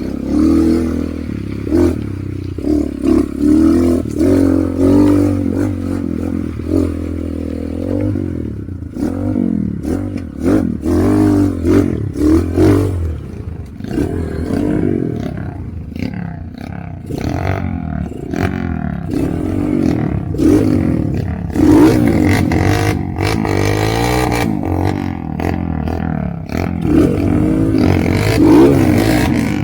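Motorcycle engine revving up and down over and over, with clattering and scraping knocks in between.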